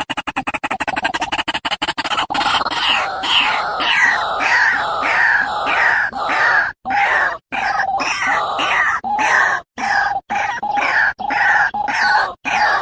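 A bird calling over and over: a fast rattle of clicks at first, then repeated notes about two a second, broken by several brief dropouts.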